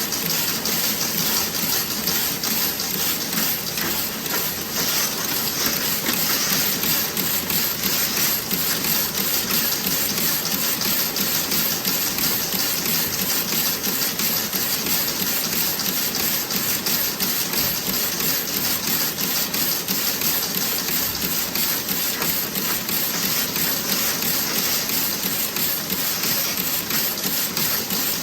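Toe-sock knitting machine running at a steady pace: a fast, even mechanical clatter with a constant high hiss.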